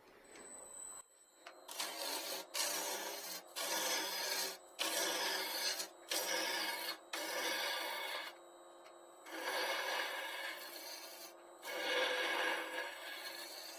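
Wood lathe running with a gouge cutting into a spinning wet-wood bowl blank: about eight scraping cutting passes of a second or so each, with short pauses between them, over the steady hum of the lathe.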